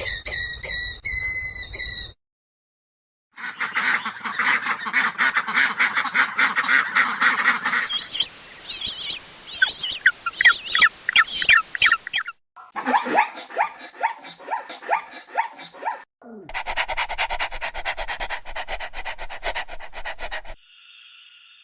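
Several short clips of birds calling, cut one after another with abrupt changes. They include quacking and honking calls, rapid runs of repeated calls, and dense flock chatter.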